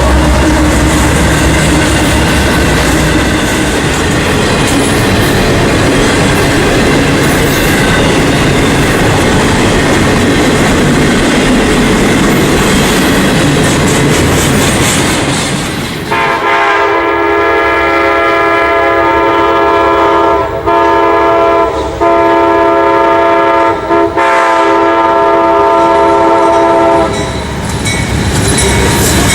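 A train passing with steady rolling noise. About halfway through, the locomotive's air horn sounds a chord of several notes for about eleven seconds, broken by three short gaps, and then the rolling noise carries on alone.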